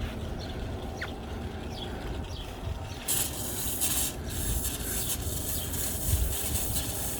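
Water spraying from a garden sprinkler, a fluttering hiss that starts about three seconds in. The JB Weld repair of the sprinkler's hose-inlet tube is holding under pressure.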